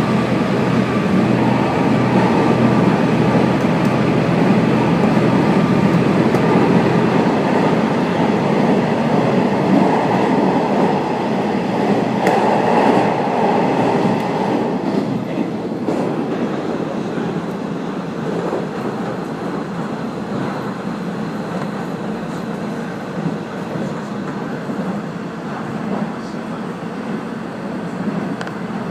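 Passenger train running along the line, heard from inside the car: steady running noise with faint wheel clicks, easing a little about halfway through.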